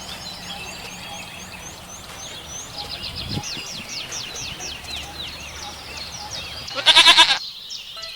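Small birds sing throughout in quick series of falling high chirps. Near the end a goat gives one loud, wavering bleat lasting about half a second.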